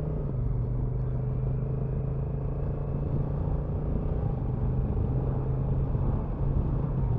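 Honda NT1100 DCT's parallel-twin engine running steadily at low revs in first gear, with some road and wind noise.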